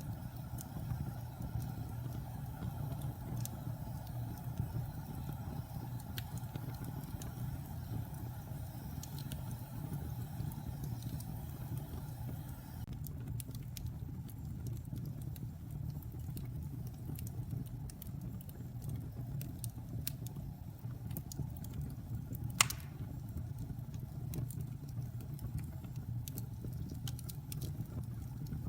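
Wood fire burning in a fireplace: a steady low rumble with scattered small crackles and one sharp, loud pop a little after 22 seconds in.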